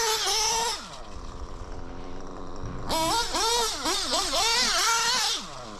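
Small nitro RC car engine running at high revs as the car laps, passing close twice: a steady high rev that falls away just under a second in, then from about three seconds a rev that rises and dips repeatedly before falling away near the end.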